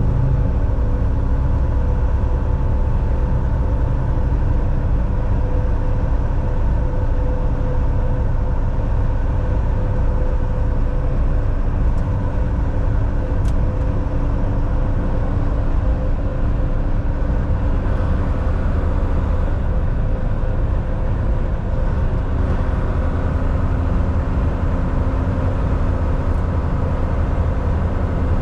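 Volvo VNL 760 semi-truck cruising on the highway: a steady engine drone and road noise, with a couple of faint ticks about halfway through.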